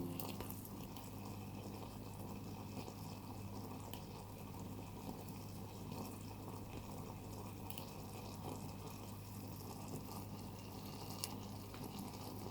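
Faint bubbling of broth simmering in a miniature pot, over a steady low hum, with a few small ticks.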